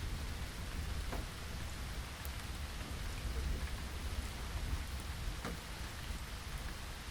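Steady rain falling, with a low rumble underneath and a few sharper drop hits, about one second in and again about five and a half seconds in.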